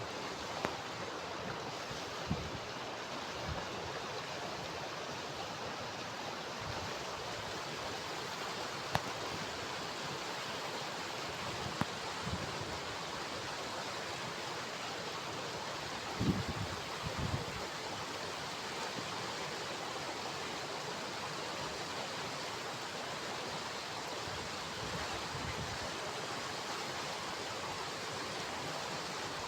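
Steady rushing of flowing water, like a stream running over rocks, with a few soft low thumps here and there, most around the middle.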